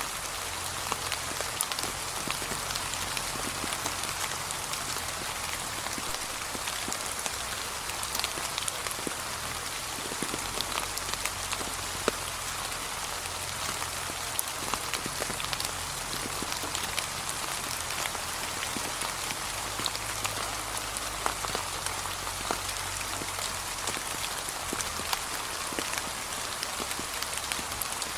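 Steady gentle rain falling on fallen leaves, a constant hiss with many separate drop ticks.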